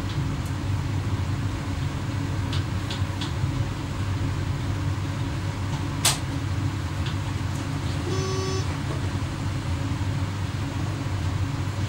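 Steady low rumble of an X11 electric multiple unit running along the line, heard from the driver's cab. There is a sharp click about six seconds in and a short, faint pitched beep a couple of seconds later.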